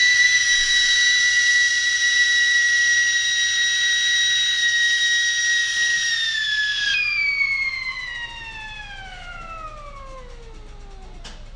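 Sampled kettle whistle: one high steady whistle tone that holds, then about seven seconds in slides steadily down in pitch and fades. A short click comes near the end.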